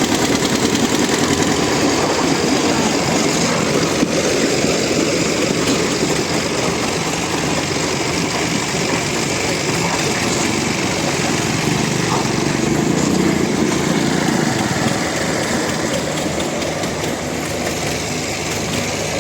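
Diesel tractor engines running hard under load as two tractors pull against each other in a tug-of-war. The steady engine noise eases slightly near the end.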